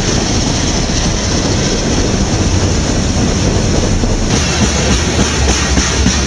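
Freight train of covered hopper cars rolling past close by: a loud, steady rumble and clatter of steel wheels on the rails. The sound changes abruptly about four seconds in.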